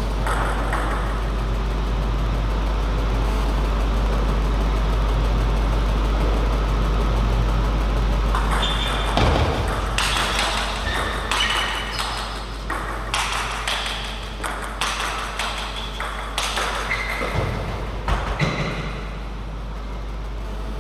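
Table tennis rally: a quick series of sharp pings as the celluloid ball strikes bats and table, starting about halfway in and stopping a few seconds before the end. Before and after the rally, a steady background noise with a low hum.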